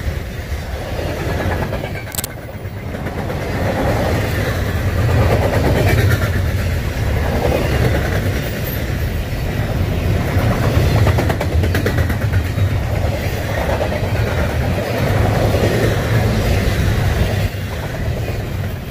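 Union Pacific double-stack intermodal container cars rolling past close by: a loud, steady low rumble of steel wheels on the rails that swells and fades as the cars go by.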